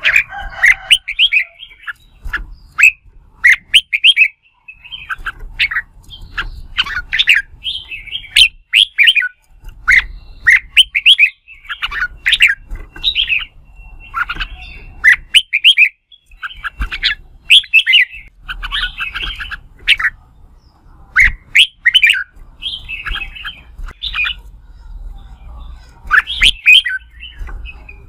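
Red-whiskered bulbul singing its competitive fighting song: short, rapid phrases of sharp whistled notes, one every second or two, with brief gaps between.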